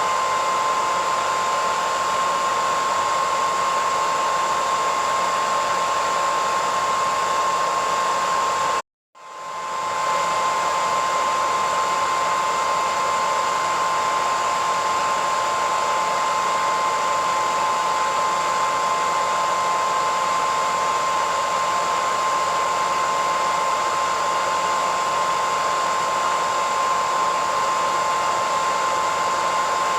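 Hair dryer running steadily: an even rushing of air with a steady high whine from the motor. About nine seconds in it cuts out completely for a moment, then fades back up to the same steady sound.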